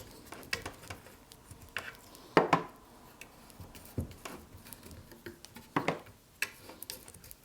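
Scattered light clinks and knocks of hand tools and frame parts being handled on a workbench, the loudest about two and a half seconds in.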